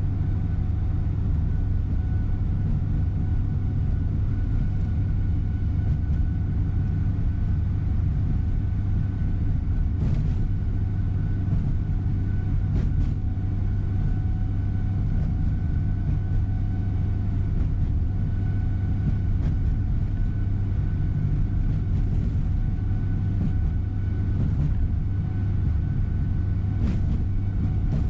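Steady engine and road rumble inside a large coach bus cruising along, with a few faint ticks and rattles from the cabin.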